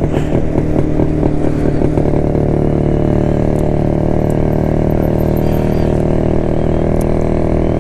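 1972 Jawa motorcycle's two-stroke engine running steadily while the bike is ridden along the road.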